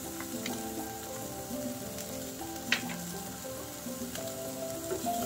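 Chopped spring onion, white onion and minced garlic sizzling in olive oil in a nonstick pan, with a few sharp pops from the oil. Soft background music plays underneath.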